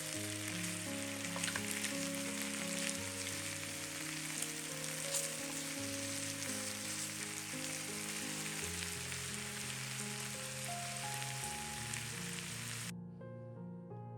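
Food sizzling and crackling in a hot frying pan, with background piano music; the sizzle cuts off suddenly near the end, leaving only the music.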